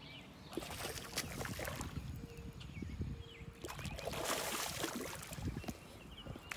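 Water splashing and sloshing as a hooked bass thrashes at the surface while it is reeled in and landed, in two louder bouts, about half a second in and again around four seconds in.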